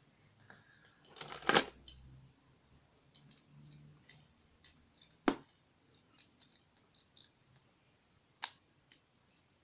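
Plastic Lego bricks being handled and snapped together: scattered small clicks and taps, with three sharper clicks at about one and a half seconds, five seconds and eight and a half seconds in.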